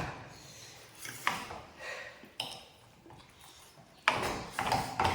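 Scattered clinks and taps of eating utensils on a plate, a few sharp ones spaced about a second apart, then a louder jumble of noise from about four seconds in.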